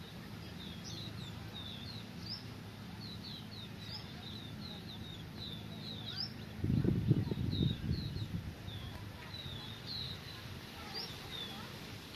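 Small birds chirping: many short, high-pitched calls repeated throughout. A burst of low rumbling noise lasts about a second and a half, starting around seven seconds in.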